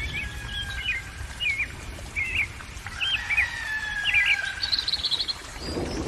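Songbird chirping: short twisting calls every half second to a second, then a quick high trill near the end.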